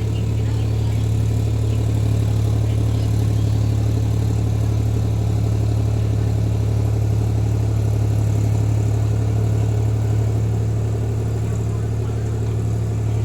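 Tractor diesel engine running steadily at an even speed, with a deep, constant hum.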